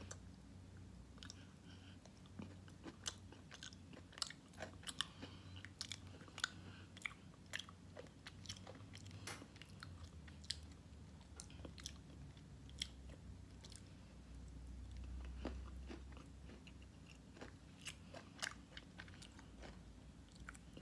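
A person chewing a crunchy, cream-filled chocolate snack: faint, irregular crunches and mouth clicks.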